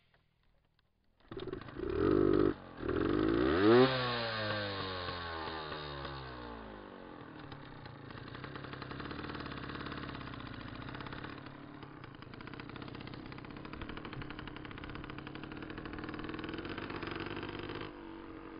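Dirt bike engine catching about a second in, revving up sharply once and dropping back, then running steadily at idle.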